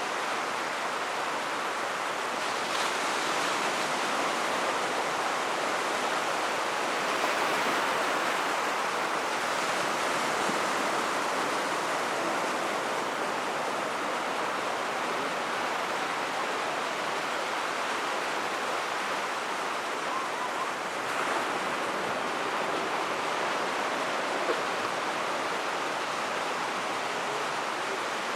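Steady rushing surf of waves on a beach, swelling and easing slightly, with a few faint sharp bangs that stand out only a little.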